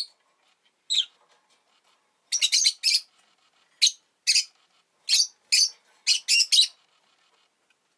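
Rosy-faced lovebird giving short, sharp, high chirps in irregular bursts: one about a second in, then quick runs of several calls from the middle to near the end, with brief silences between.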